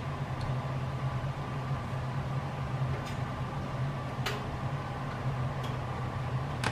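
Wood fire burning in a fireplace, giving a few sharp crackles over a steady low hum.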